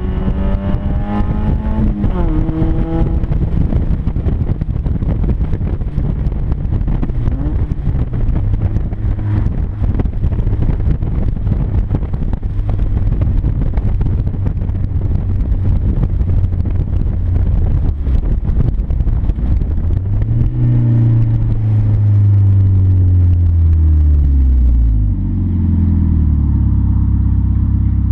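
1996 Mazda Miata's 1.8-litre four-cylinder engine running very loud through an exhaust leak just after the catalytic converter, opened with washers spacing the cat from the mid-pipe. The revs rise at the start, then hold steady under heavy road noise. Near the end the revs fall away and settle to a steady, lower, idle-like note.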